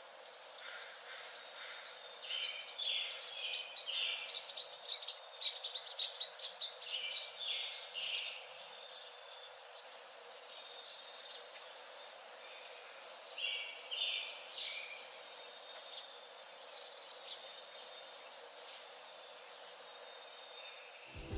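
Small birds chirping and calling over a steady outdoor hiss, busiest in the first half with a shorter cluster of calls about two-thirds of the way through.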